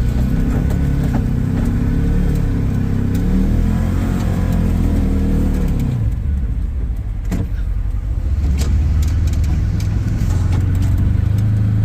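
Side-by-side utility vehicle's engine working while plowing snow. It revs and wavers, drops sharply in pitch about six seconds in, then runs steadier and lower, with a few sharp knocks in the middle.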